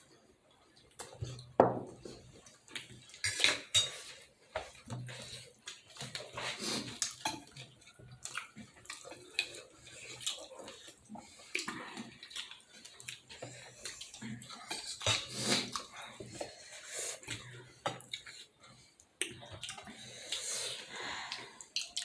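Irregular clinks, taps and scrapes of cutlery and plates during a meal of momo dumplings.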